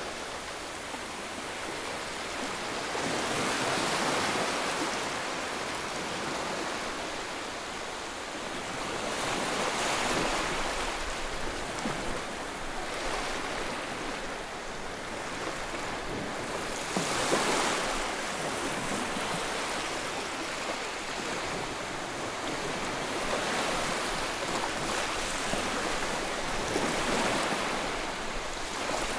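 Ocean waves breaking and washing on a shore, a continuous surf noise that swells and recedes every few seconds, with a stronger wave about seventeen seconds in.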